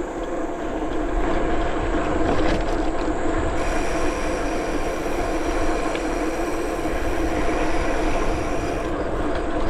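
Bicycle rolling steadily along the trail: a constant droning hum from the ride, with low wind rumble on the microphone.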